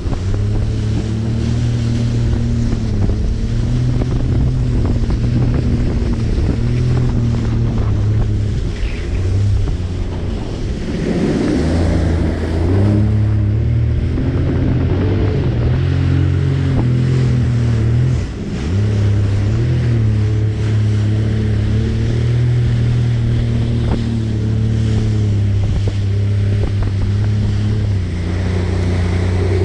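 Jet ski engine running under way, its pitch stepping up and down with the throttle, with wind on the microphone and water rushing past. The engine eases off briefly a little past the middle.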